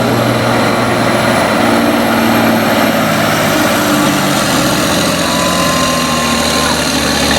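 2007 Western Star semi truck's diesel engine running hard under load as it pulls the weight sled, loud and steady. Its note drops lower about halfway through.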